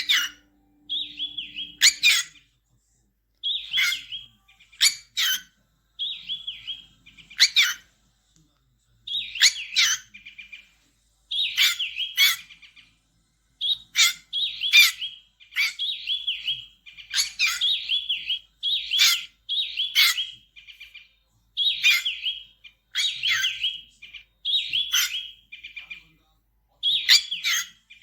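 Bird chirping in short repeated phrases, about one every one to two seconds, with silent gaps between.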